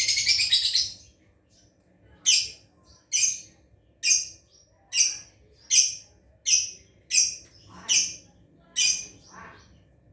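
Lovebird calling: a rapid high chattering burst for about the first second, then a string of about ten sharp, shrill single calls, roughly one every 0.7 s. This is a lovebird practising its ngekek, the long chattering song.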